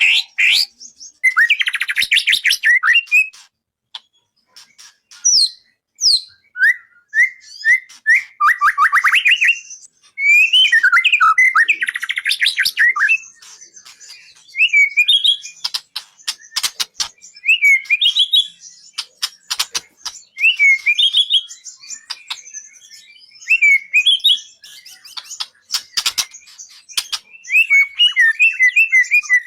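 A murai songbird singing in repeated bursts of varied whistled phrases and rapid trills, separated by short pauses, with a few sharp clicks among them. This is a masteran recording, bird song played to teach caged songbirds.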